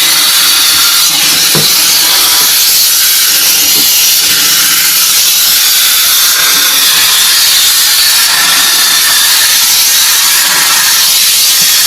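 Loud, steady hissing noise.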